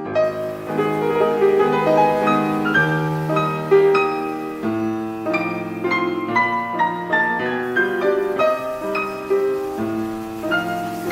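Lullaby played on piano: a gentle melody of separate, ringing notes over slower bass notes.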